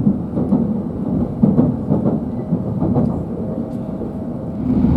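Steady low rumble of a Tohoku Shinkansen train moving along the platform, with scattered crackles.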